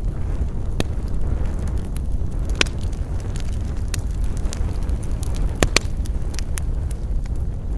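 Wood campfire burning: a steady low rumble with scattered crackles and sharp pops. One loud pop comes about two and a half seconds in, and two more close together a little before six seconds in.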